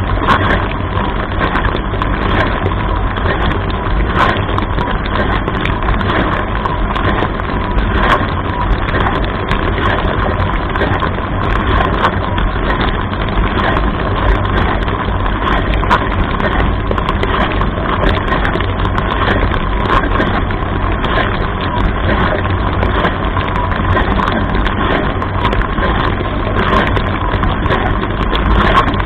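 Dishwasher running, heard from inside the wash chamber: water jets from the spray arm splashing and drumming in many small irregular hits over the steady hum and whine of the wash pump.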